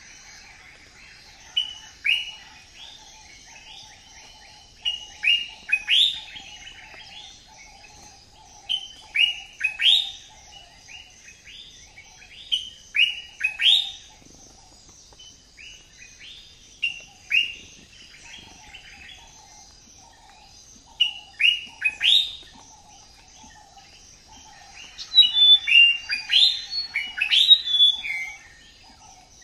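Birds calling: short, sharp downward-slurred chirps repeated about once a second, growing into a flurry of overlapping calls near the end, over a steady high buzzing drone and a faint low pulsing chorus.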